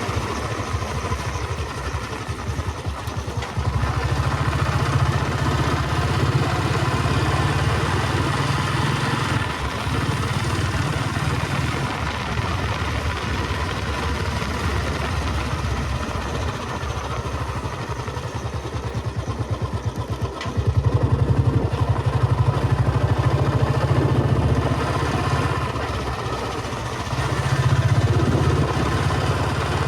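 The cast-iron single-cylinder engine of a 2008 Royal Enfield Bullet 350 Electra thumping along while riding. It gets louder about four seconds in, again about twenty-one seconds in, and again near the end.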